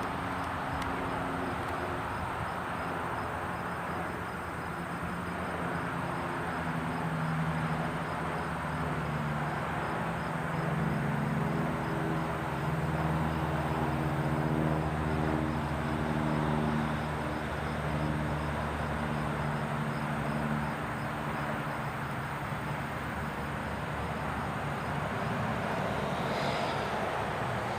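A 1968 Cessna 177 Cardinal's four-cylinder Lycoming piston engine and propeller droning past overhead, growing louder to a peak about halfway through, then fading away into a steady background hiss.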